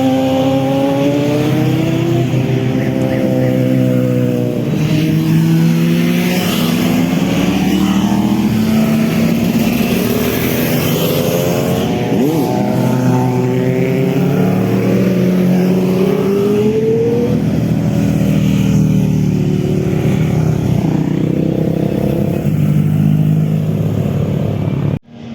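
Motorcycle engine running hard and loud, its pitch rising and falling again and again as it is revved up and eased off.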